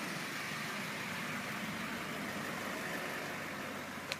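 Tow truck's engine running steadily as the truck pulls up.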